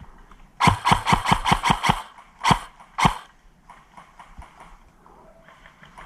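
Airsoft gun firing close by: a quick string of about eight sharp shots, then two single shots. Fainter rapid clicking follows.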